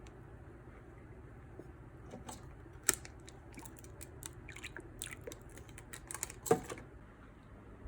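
Scattered light clicks and crunches, with two sharper clicks about three seconds in and about six and a half seconds in.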